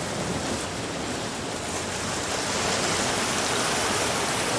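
Sea surf washing on the shore: a steady rushing noise that swells slightly in the second half.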